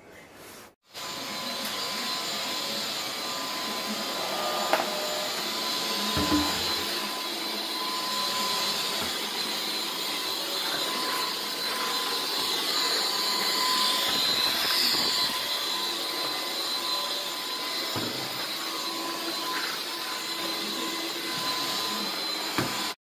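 Pressure cooker whistling, a loud, steady hiss of escaping steam with a thin whistle tone through it, starting suddenly about a second in and cutting off abruptly at the end. It is the cooker venting at full pressure as the chicken cooks.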